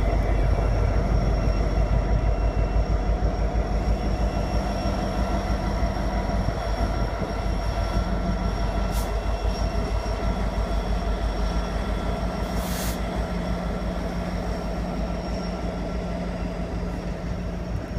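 CN freight train's cars rolling past at speed: a steady, heavy rumble with thin high ringing tones over it, slowly getting quieter. Two sharp clanks stand out, one about halfway through and one a few seconds later.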